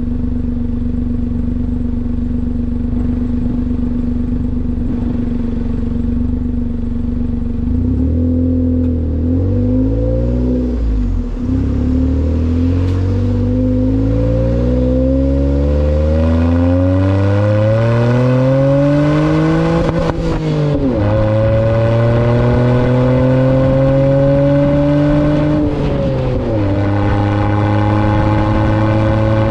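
Kei truck's three-cylinder engine through an aftermarket muffler, running steadily for several seconds, then accelerating through the gears. The exhaust note climbs in pitch and drops at each gear change, about 11, 20 and 26 seconds in.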